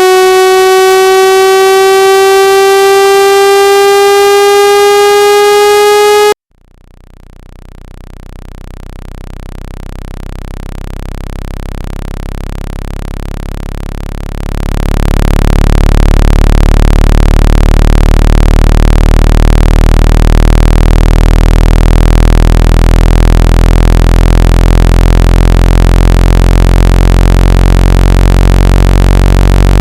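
Synthetic speaker water-ejection tones, played to vibrate water out of a phone or earphone speaker. A loud buzzy tone slowly rising in pitch cuts off suddenly about six seconds in. A deep low hum then fades in and holds steady at full loudness from about halfway through.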